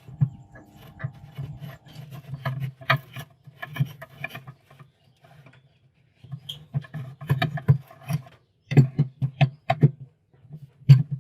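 Screwdriver working screws out of a refrigerator's plastic thermostat housing, with irregular scraping, rubbing and clicks as the panel is handled; it goes nearly quiet for about a second midway.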